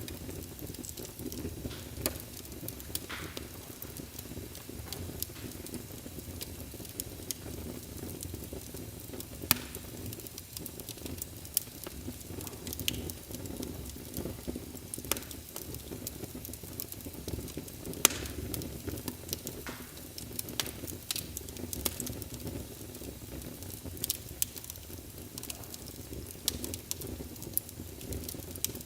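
Fire in a fireplace crackling, with a steady low rush of flames and frequent sharp pops scattered irregularly throughout. The loudest pop comes about 18 seconds in.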